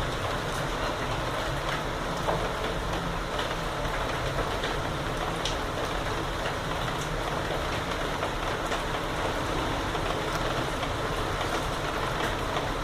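Heavy rain falling steadily, an even hiss with scattered sharp drips striking close by.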